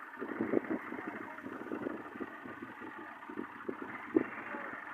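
Tractor engine running, with irregular short knocks and rattles.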